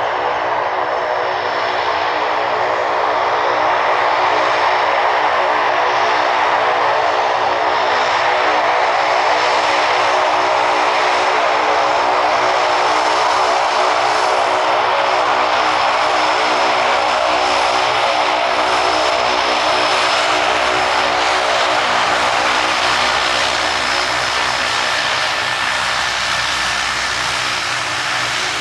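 Loganair turboprop airliner's engines and propellers at takeoff power: a loud, steady drone with many propeller tones. It swells over the first few seconds and eases slightly near the end.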